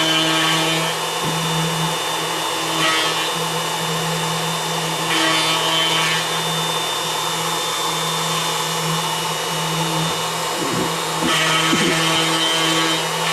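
Plunge router running steadily, with a constant hum, as its bit routes lettering into a wooden board; the cutting gets louder and brighter in several stretches of about a second, around the start, near three seconds, near six seconds and near the end.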